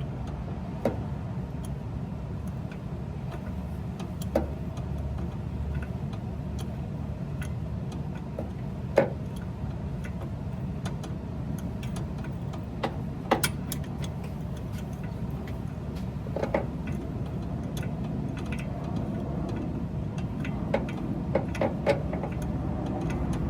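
Scattered clicks and light knocks of hand work on the truck, about a dozen spread irregularly and sharpest around the middle, over a steady low rumble.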